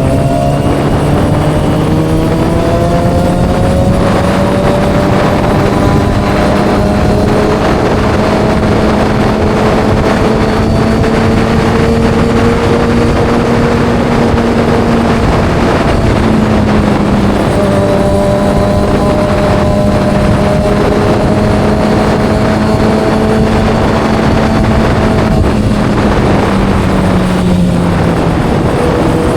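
Kawasaki ZX6R's inline-four engine breathing through an M4 exhaust, cruising at a nearly steady engine speed over a steady rush of noise. The engine note dips briefly about halfway through and falls away near the end as the bike slows.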